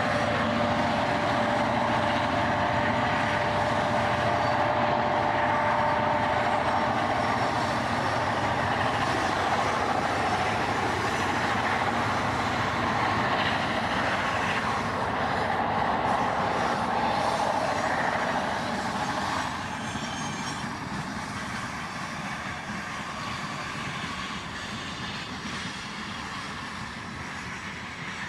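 EMD diesel-electric locomotives (GM and ALF classes) working hard with a heavy loaded freight train: a loud, steady engine din with a steady whine over it at first. About twenty seconds in the sound drops and grows fainter as the locomotives draw away.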